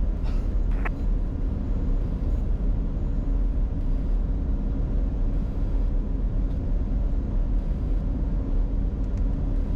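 Steady cockpit noise of a Bombardier Challenger 605 on short final, a mix of airflow over the airframe and its engines running, strongest in the low end.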